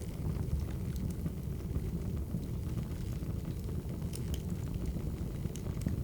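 Crackling wood fire: a steady low rumble with scattered sharp pops and crackles.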